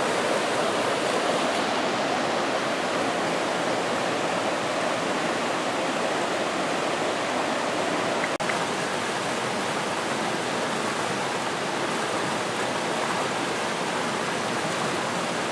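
The Roaring Fork, a mountain stream, rushing steadily over rocks. There is a single short click a little past halfway.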